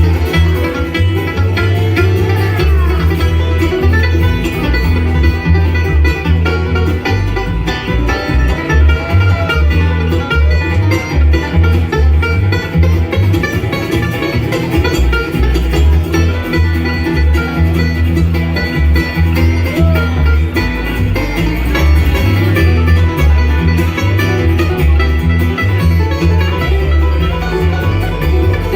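Bluegrass band playing an instrumental passage, with banjo and guitar picking over a steady, driving bass rhythm.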